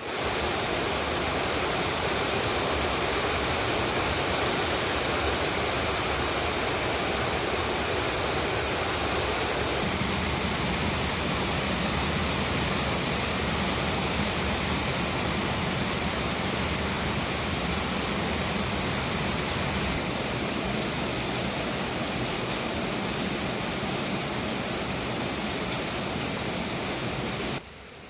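Heavy rain falling as a dense, steady hiss. It grows fuller in the low end about a third of the way in and drops sharply in level just before the end.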